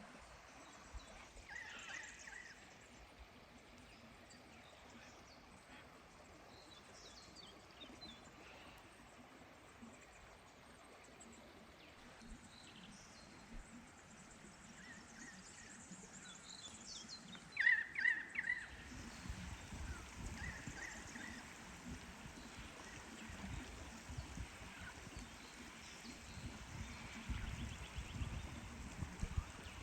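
Outdoor bush ambience: a faint steady rush of a mountain stream with birds calling now and then, one louder call a little past halfway. A low rumble sets in during the second half.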